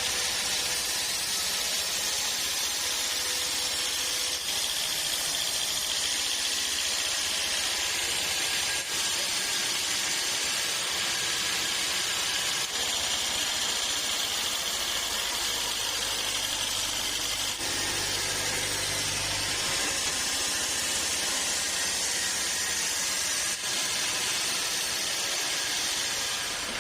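Sawmill machinery running steadily with a continuous hiss; a low hum joins in for a few seconds about two-thirds of the way through.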